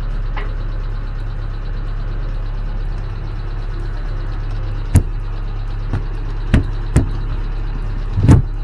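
Sharp knocks inside a sailboat's cabin, four of them in the second half, the last a heavier double thump, as panels and fittings are handled, over a steady low hum.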